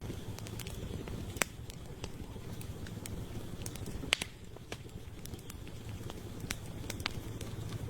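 Wood campfire crackling: scattered sharp pops and snaps over a steady low rush of burning, with two louder pops about a second and a half and four seconds in.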